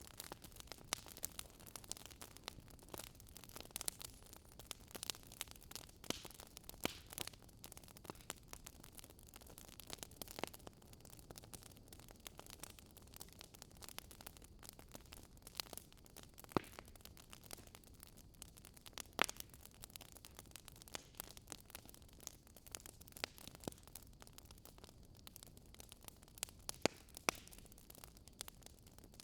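Wood fire burning: irregular sharp pops and crackles over a soft hiss, a few louder snaps scattered through.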